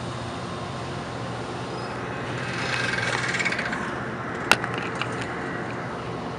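Bi-level commuter train rolling slowly along the platform: a steady low rumble with a swelling hiss of wheels on rails around three seconds in. One sharp click comes about four and a half seconds in, followed by a few fainter ones.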